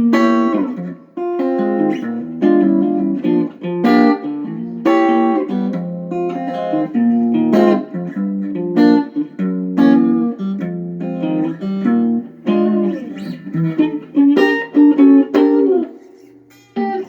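Guitar playing a progression of extended and altered jazz chords, struck one after another about once or twice a second and left to ring, dying away near the end.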